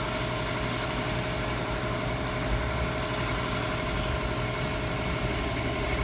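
Fadal VMC 4020 CNC vertical machining center running with a steady hum made of several fixed tones over an even noise.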